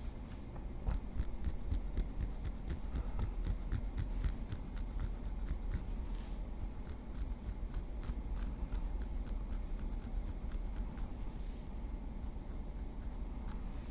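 Small wooden stick tapped lightly at close range: many quick, irregular clicks, several a second, with a brief rub about six seconds in.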